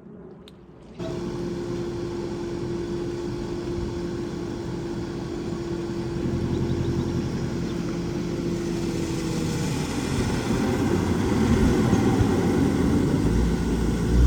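A vehicle engine running, with a steady whine, starting abruptly about a second in and slowly growing louder as the vehicle comes closer.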